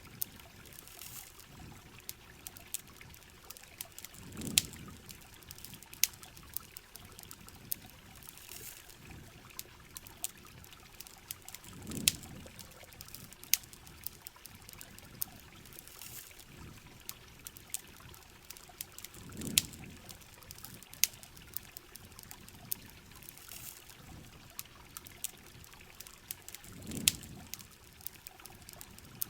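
Campfire crackling with sharp pops over steady rain and trickling water. A low swell of sound comes back about every seven or eight seconds.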